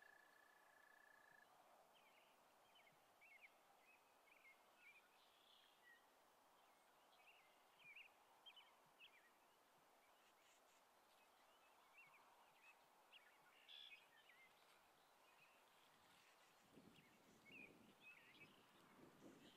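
Near silence with faint, scattered short chirps of small birds. A thin steady whistle stops about a second in, and a low rustle comes in near the end.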